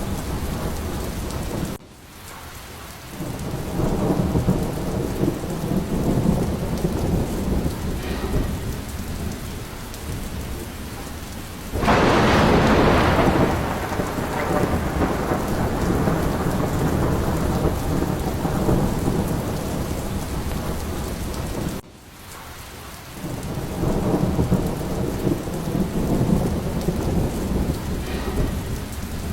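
Steady rain with rolling thunder. Low rumbles build and fade, and a sharp, close thunderclap about twelve seconds in is the loudest moment, dying away over several seconds. The sound dips abruptly and briefly twice, once near the start and once about two-thirds of the way through.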